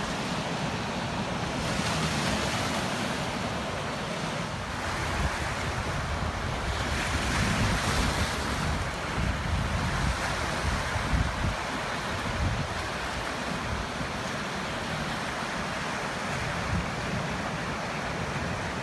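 Sea waves washing onto the beach in slow surges, with wind buffeting the microphone.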